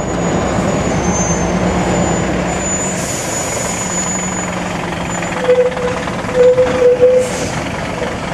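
A heavy truck's diesel engine runs steadily, with a few short beeps about five and a half to seven seconds in and brief hisses of air.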